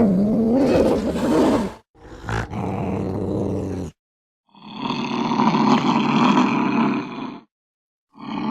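Angry cat yowling and growling in separate rough calls with abrupt cuts of silence between them. The first call wavers in pitch, a longer growling yowl comes in the middle, and another starts near the end.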